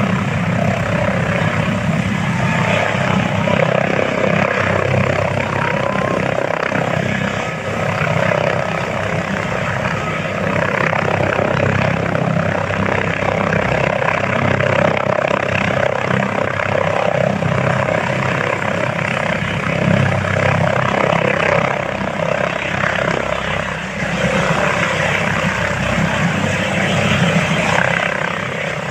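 Helicopter running with a loud, steady engine and rotor noise that holds throughout.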